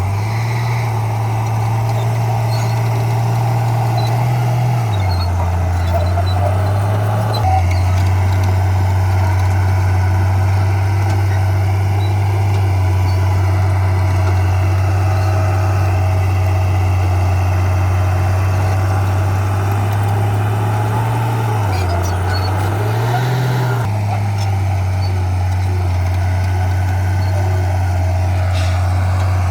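Heavy earthmoving machine's diesel engine running steadily, its engine speed shifting up and down a few times.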